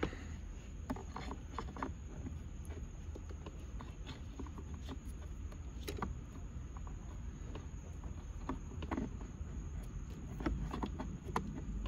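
Scattered light clicks and scrapes of a flathead screwdriver working at the airbag release pin inside a steering wheel, over a steady low rumble of handling noise.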